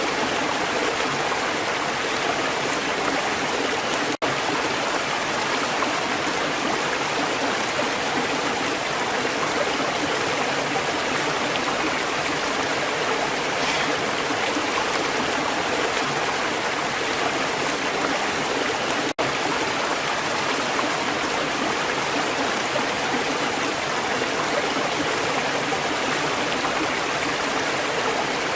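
Steady rush of water from a waterfall, broken by two split-second gaps, about four seconds in and again about nineteen seconds in.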